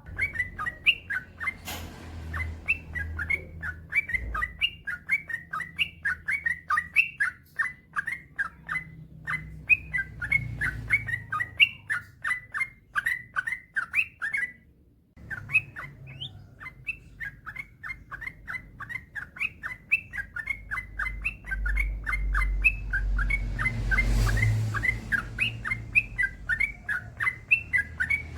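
Yellow-vented bulbul (trucukan) singing a long, rapid run of short chirping notes, about four a second, with a brief break about halfway. A low rumble sits under it at times.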